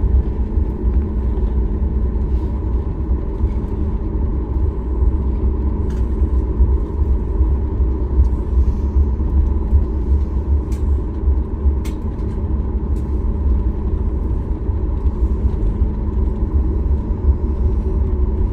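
Steady cabin noise inside a Boeing 737 MAX 8 in motion: the low rumble of its CFM LEAP-1B engines and airflow with a constant hum, and a few faint clicks.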